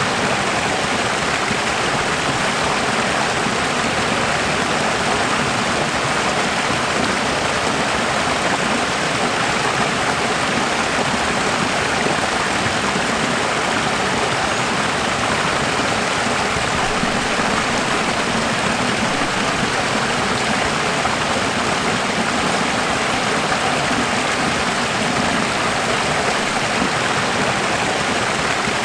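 Running water, a steady, even rush without breaks or changes.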